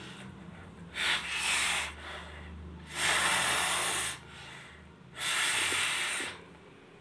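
Three hard, forceful blows of breath into a bottle's mouth, each about a second long with short pauses between, pushing a crumpled paper ball into the bottle.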